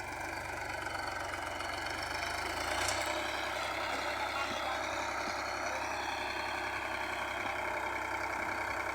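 Indofarm 3035 DI tractor's diesel engine running steadily.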